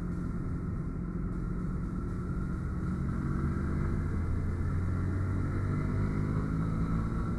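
Motorcycle engine running steadily while riding, with road and wind noise; it grows a little louder about three seconds in.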